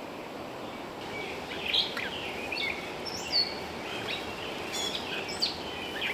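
Birds chirping and calling several times in short, high notes over a steady background hiss.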